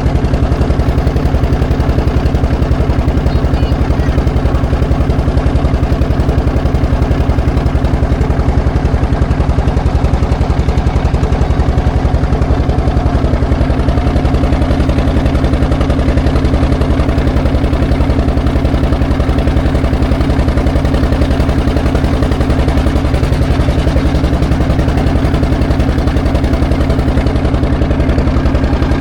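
Engine running steadily at a constant speed, a low, even throb that does not change.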